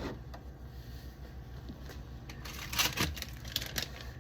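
Food containers and packaging being handled during a fridge clean-out: a few short clicks and crinkles about two and a half to three seconds in, over a low steady hum.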